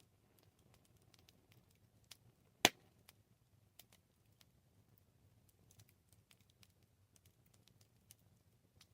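Wood fire crackling: scattered small snaps and pops, with one loud crack about two and a half seconds in.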